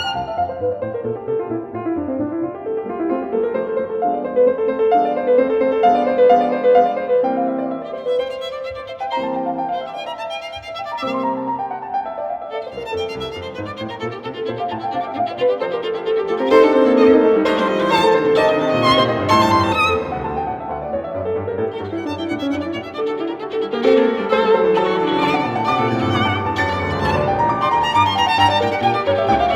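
Background music: a violin melody with gliding, sweeping runs of notes.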